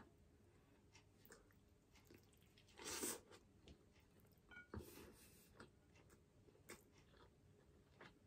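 Faint chewing and mouth sounds of a person eating soft salmon and rice, with a short louder noise about three seconds in and another near five seconds.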